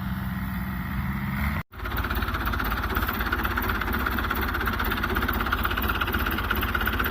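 Tractor diesel engine running steadily. It cuts out for an instant about a second and a half in, then runs on with a busier, rapidly pulsing clatter.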